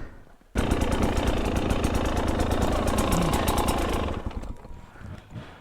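Dirt bike engine running, cutting in suddenly about half a second in with a fast, even pulse and dying away about four seconds in.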